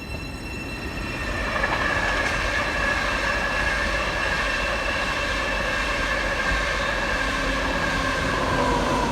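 Great Northern Class 717 electric train moving at the platform: a high whine that slowly falls in pitch over the rumble of the wheels on the rails, growing louder about a second in.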